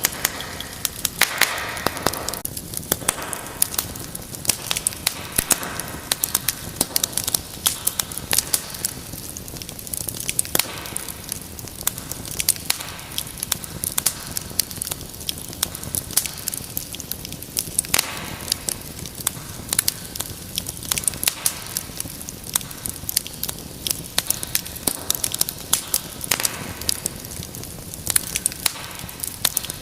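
Wood fire crackling and popping steadily, with frequent sharp snaps over a soft hiss of flame.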